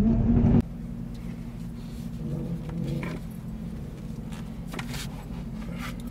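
Car engine idling steadily with a low drone. About half a second in, the sound drops abruptly to a quieter steady idle with a few faint clicks.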